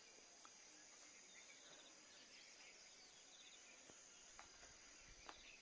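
Near silence: faint morning outdoor ambience with a steady high insect trill and a few faint clicks.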